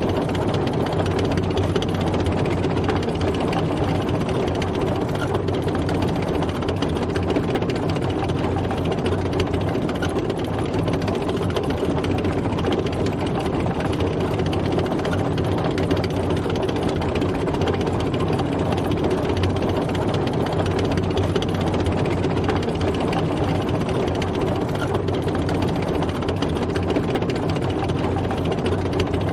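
Tank driving: its engine runs steadily, with the continuous clatter of the tracks over it.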